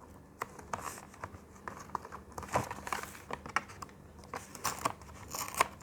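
Close-up crinkling and rustling with many scattered sharp clicks and small tearing sounds as fruit is handled and its skin worked.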